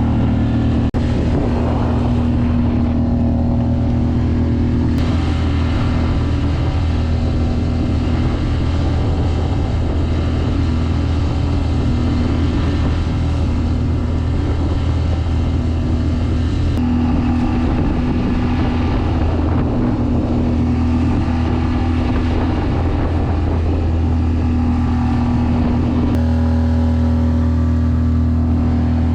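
Outboard motor pushing a small sailboat, running steadily under load with a constant drone.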